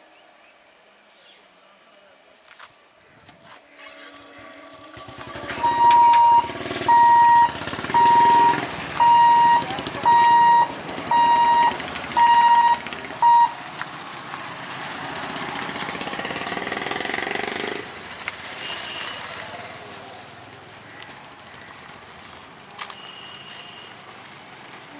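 EMU local electric train horn sounding eight short, evenly spaced blasts, about one a second, over the noise of the train running past. The running noise goes on after the horn stops and drops away about two-thirds of the way through.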